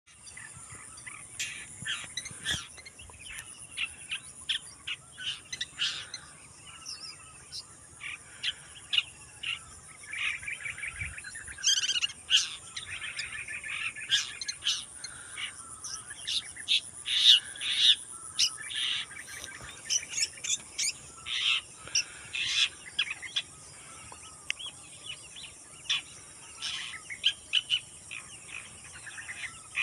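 Long-tailed shrike (pentet) singing: a long run of varied short chirps, harsh notes and quick trills, with a steady high insect buzz behind it.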